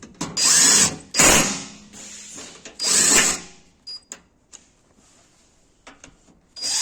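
A power tool run in short bursts, three times, each about half a second long.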